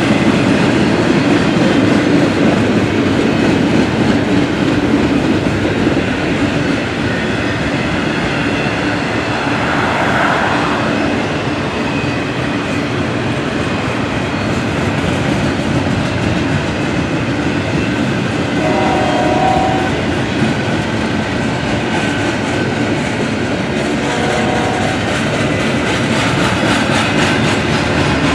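Norfolk Southern freight train rolling past: a steady rumble and clatter of cars over the rails. Twice in the second half a brief pitched tone rises above the noise.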